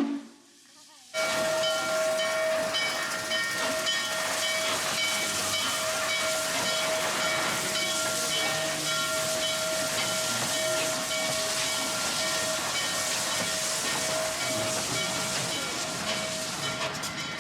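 Norfolk & Western 611 steam locomotive venting steam: a loud steady hiss with a thin steady tone running through it. The hiss starts abruptly about a second in, after a short lull.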